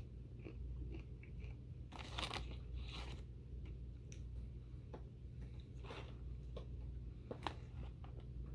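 A person biting into and chewing crunchy chocolate-drizzled plantain chips: a run of separate crunches, loudest about two seconds in, then softer chewing crunches.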